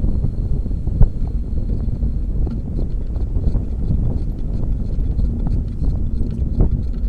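Wind buffeting the microphone of a camera on a moving bicycle, a loud, steady low rumble. Scattered small clicks and rattles run through it, with one sharper knock about a second in.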